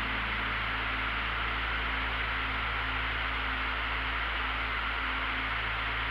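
Steady droning noise inside a light aircraft's cabin in cruise flight, even and unchanging, with faint held tones drifting in and out underneath.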